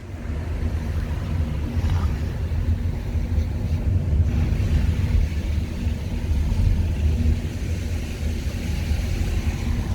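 A car driving, with a steady low rumble of road and wind noise and wind buffeting the microphone through an open window.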